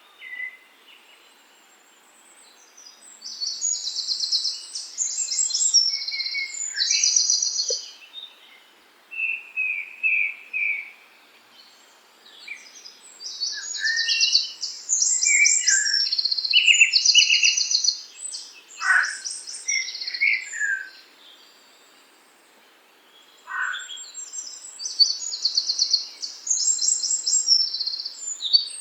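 Songbirds singing in the countryside: three bouts of high, fast, repeated song phrases, with lower whistled notes and a couple of sharp falling calls between them, over a faint steady background hiss.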